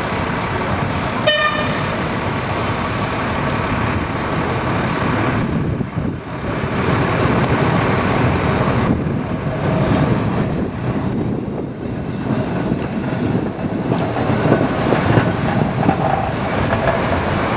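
A tram gives one short horn toot about a second in, then runs on with a steady rumble of wheels and motors.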